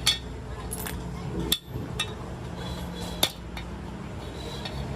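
Sharp metallic clinks of hand tools striking metal, about five at irregular intervals, over a steady low machine hum.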